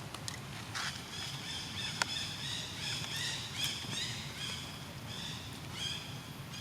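High-pitched animal chirps, short downward-sliding calls repeating two or three times a second, with one sharp click about two seconds in.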